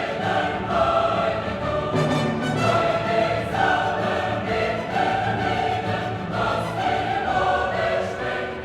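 Choir singing with an orchestra: classical choral music with sustained sung notes.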